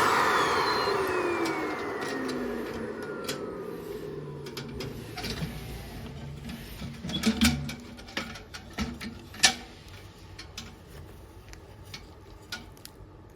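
Parkside ash vacuum cleaner's motor switched off and spinning down, its whine falling steadily in pitch and fading over about five seconds. A few clicks and knocks follow, the sharpest about nine seconds in.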